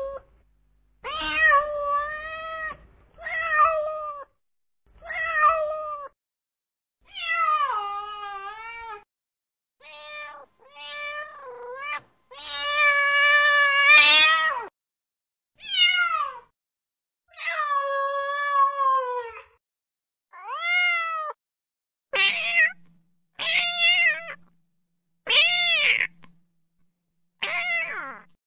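Kitten meowing over and over, about fifteen meows separated by short pauses; some are short and some drawn out and bending in pitch, the longest lasting about two seconds near the middle.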